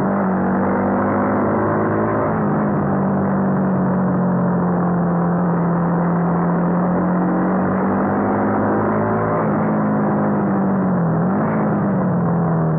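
Honda CBR250R's single-cylinder engine running hard at mid revs, about 6,000–7,000 rpm, with a steady droning note that drifts slightly in pitch. About eleven seconds in, the note dips and climbs again as the throttle is rolled off and back on.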